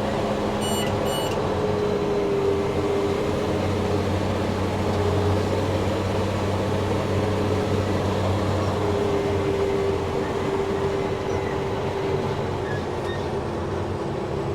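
Steady drone of a self-propelled sprayer's Cummins diesel engine and drivetrain, heard inside the cab. Two short electronic beeps sound about a second in.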